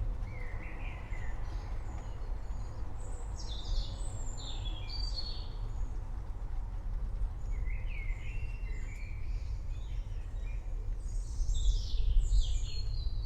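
Songbirds singing in short repeated phrases, a burst about every few seconds, over a steady low rumble from the thunderstorm.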